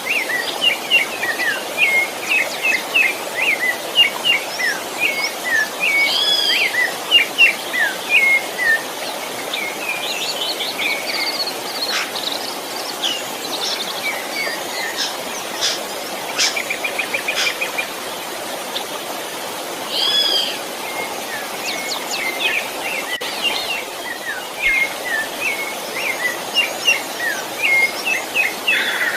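Several birds singing and chirping, with runs of short repeated chirps and a few trills, over a steady rush of flowing river water.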